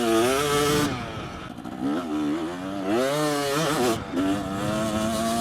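KTM dirt bike engine revving hard, its pitch climbing and falling back several times.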